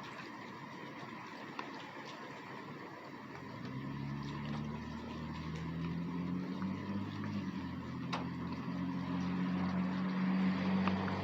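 Rain with a few scattered drop ticks. About a third of the way in, a vehicle's low engine hum comes in and grows steadily louder toward the end.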